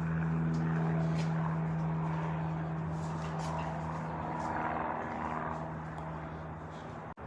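A steady engine-like drone, loudest about a second in and slowly fading after.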